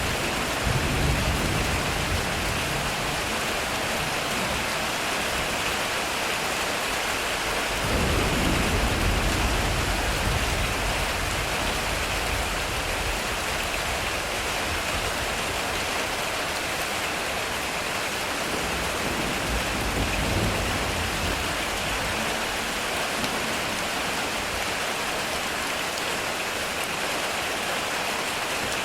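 Heavy rain pouring steadily on a metal roof, with low thunder rumbling three times: near the start, about eight seconds in and about twenty seconds in.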